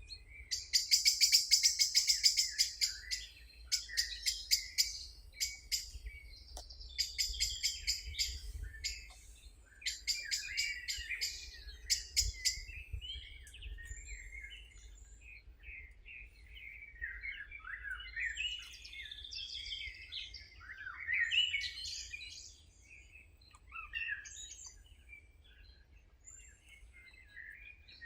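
Wild birds singing. Loud, rapid trilled phrases repeat through the first ten seconds or so, followed by many short, varied chirps and whistles, over a faint low rumble.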